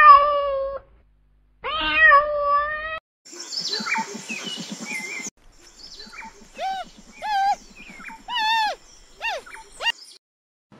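A domestic cat gives two long, drawn-out meows. After a stretch of noise, a giant panda gives a run of about seven short, high calls, each rising and falling in pitch.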